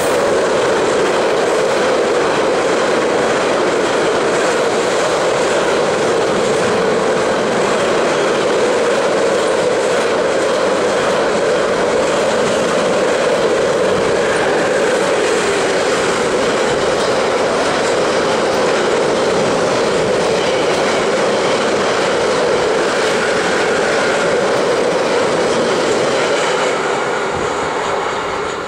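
A long train of double-deck car-carrier wagons passing close by at speed: a steady, loud rolling roar of steel wheels on the rails, easing slightly near the end.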